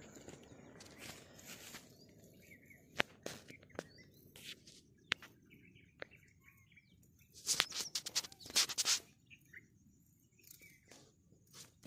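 Faint bird chirps outdoors, broken by scattered sharp clicks and a short burst of rustling noise about two-thirds of the way through.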